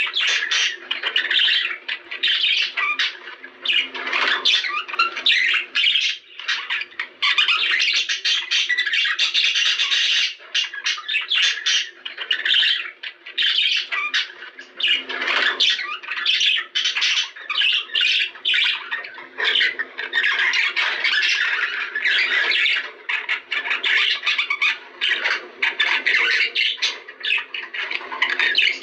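Budgerigars chattering and squawking without pause: a dense run of short, scratchy calls and warbles.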